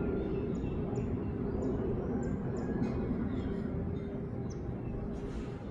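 Jet engines of a Boeing 777-300ER (GE90-115B turbofans) rumbling low and steady on approach, with a few short high chirps over it.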